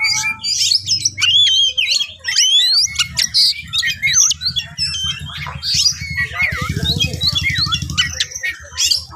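Oriental magpie-robin singing a fast, varied run of whistles, chirps and sweeping notes: its full, agitated fighting song. A low hum runs underneath from about three seconds in until near the end.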